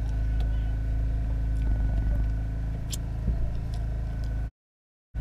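A steady low mechanical hum, like a running motor, with a thin high whine over it and a few faint clicks; it cuts out abruptly about four and a half seconds in and comes back just before the end.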